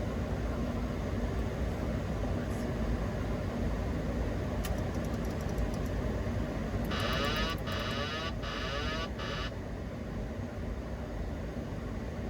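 Steady rushing airflow and air-conditioning noise in a Boeing 737-800 cockpit on final approach. About seven seconds in, a short electronic tone sounds in four quick pulses over roughly two and a half seconds, and a single click comes a little before it.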